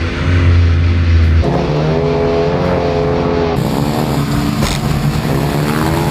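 Demolition derby car engines running and revving, their pitch wavering up and down.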